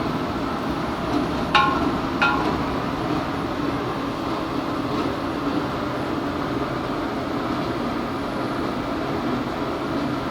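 Steady rumbling background noise, with two ringing metal clinks about a second and a half and two seconds in, like a utensil striking a metal cooking pot.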